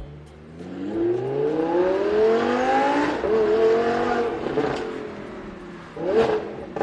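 Lamborghini Huracan LP610-4's V10 through a Fi valvetronic catback exhaust, revving. The pitch climbs for a couple of seconds, holds, then falls away, and a short sharp blip of the throttle comes near the end.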